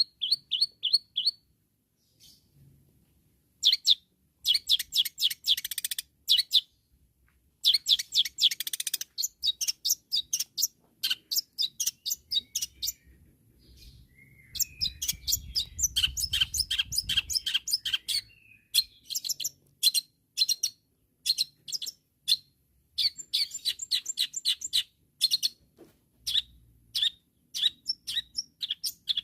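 Long-tailed shrike (cendet) singing in full voice. It gives rapid runs of short, sharp, high chirps in bursts, with a couple of harsher, scratchy notes and brief pauses between runs.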